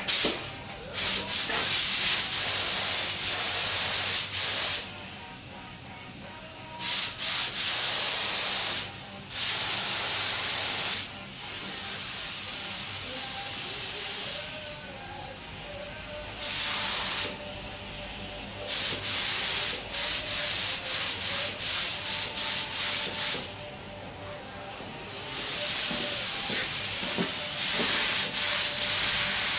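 Spray-paint gun hissing in repeated bursts of one to five seconds with short pauses between, as paint is sprayed onto motorcycle frame parts.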